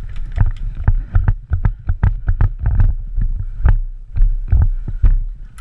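Quick, uneven footsteps with knocks of gear, thumping on the microphone and wind rush, as a player moves fast on foot.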